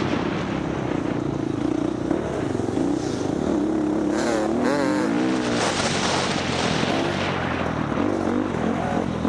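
Dirt bike engine running under load, its pitch rising and falling repeatedly around the middle as the throttle is worked, over a constant rushing noise.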